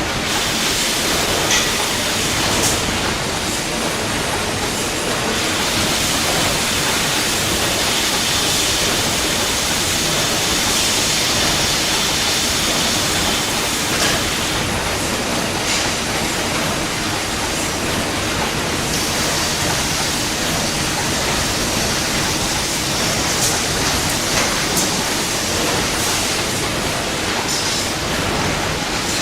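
Lathe running: a steady, dense mechanical noise with a high hiss that comes and goes, and a few sharp ticks.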